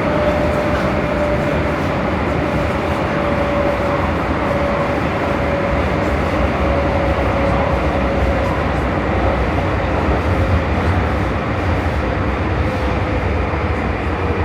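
Prague metro train running through a tunnel, heard from inside the car: a loud, steady rumble and rush of wheels on rail, with a single whine that slowly drops in pitch over the first several seconds.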